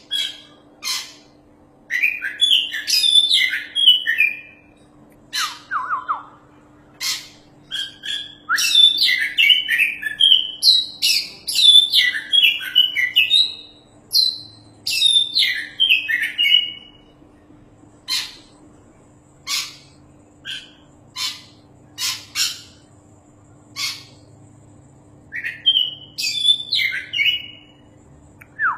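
Oriental magpie-robin singing: bursts of rapid, varied whistled phrases alternate with single sharp call notes repeated about once a second.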